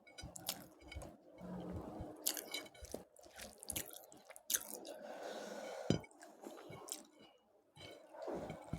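Close-miked chewing: irregular crisp crunches and wet mouth sounds of a person eating.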